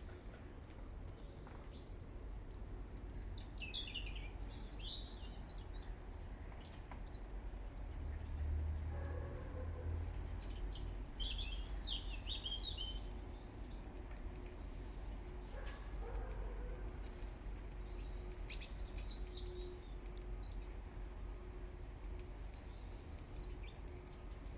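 Small garden birds chirping and calling in short, scattered bursts over a steady low background rumble.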